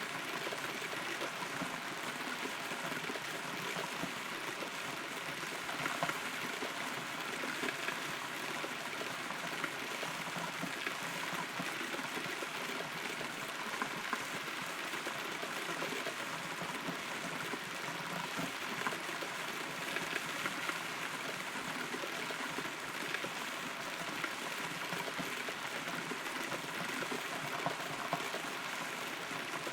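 Steady rain heard from inside a hollow, rotten tree trunk: a continuous patter with many small, scattered drop strikes.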